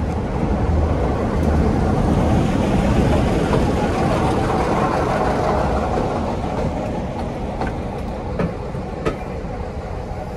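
Diesel-hauled train passing on a heritage line: its rumble and wheel noise swell to a peak a few seconds in, then slowly die away, with a few sharp clicks near the end.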